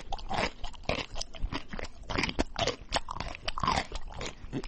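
Crunchy food being bitten and chewed close to the microphone: a quick, irregular run of crackling crunches mixed with wet mouth noises.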